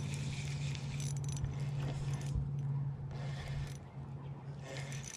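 Fishing reel being cranked to bring in a hooked fish, a light mechanical clicking and whirring, over a steady low hum.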